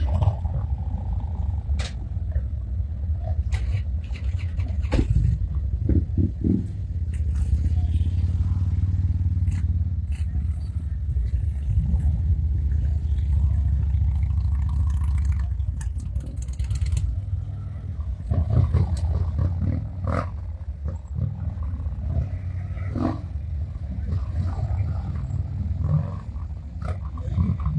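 Police motorcycles running at low speed through an obstacle course, their engines heard over a heavy low rumble.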